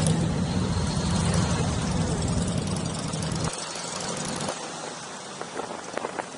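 Motorcycle engine running at low speed with a steady low rumble that cuts off abruptly about three and a half seconds in, followed by a few scattered light clicks and taps.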